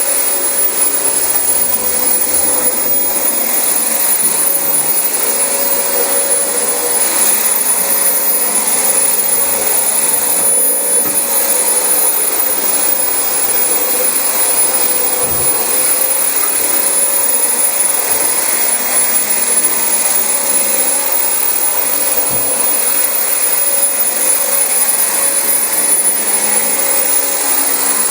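Dyson DC25 upright bagless vacuum cleaner running steadily while vacuuming carpet: a constant rush of airflow with a thin, steady high-pitched whine over it.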